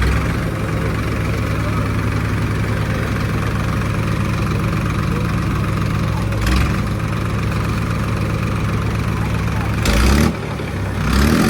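Tractor diesel engines running steadily under load during a tochan tug-of-war between tractors. Three brief louder bursts of noise come about halfway through and near the end.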